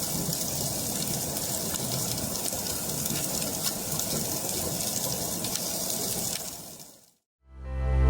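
Steady rush of running water, fading out about seven seconds in.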